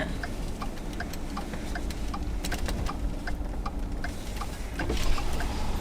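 A car's turn-signal indicator clicking steadily inside the cabin, over the low rumble of the engine and road.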